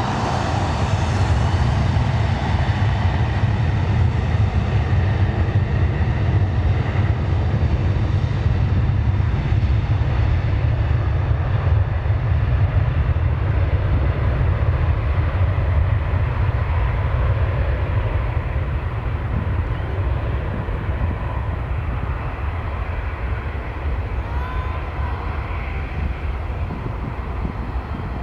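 Jet airliner engines rumbling loud and steady close by, the higher hiss slowly fading as the aircraft moves away.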